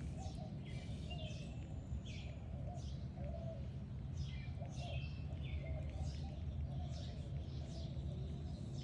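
Birds chirping: short high calls repeating about once or twice a second, over a steady low rumble.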